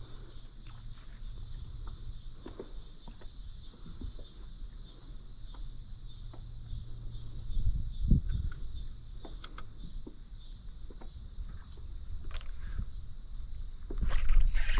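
High-pitched insect chorus, a steady rhythmic pulsing, with scattered small knocks. There is a low thump about eight seconds in, and louder knocking and rustling near the end.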